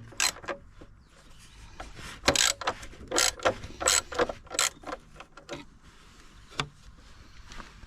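Socket ratchet with a 10mm socket working bolts, clicking in irregular short bursts with clinks of metal tools.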